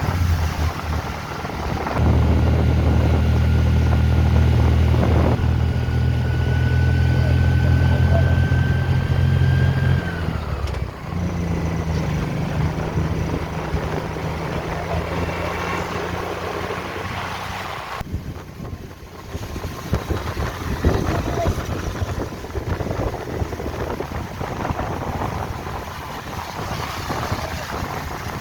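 A vehicle's engine pulls under load with a slowly rising whine, then drops in pitch about ten seconds in, as at a gear change. It runs lower for a while, then gives way to a rush of wind and road noise buffeting the microphone.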